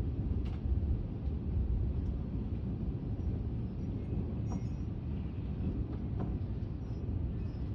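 Gusty thunderstorm wind buffeting the microphone: a steady, fluctuating low rumble.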